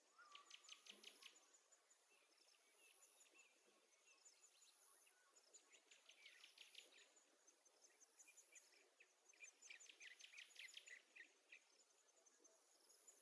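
Faint insect chirping in rapid trains, three bursts over near silence.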